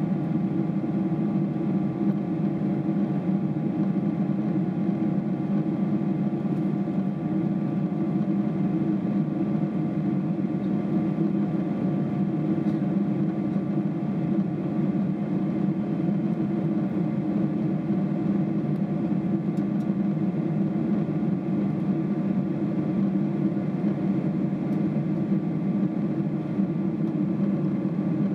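Steady cabin noise inside a Boeing 777-300ER airliner: a constant low drone of the engines and passing air, with a few faint steady tones above it.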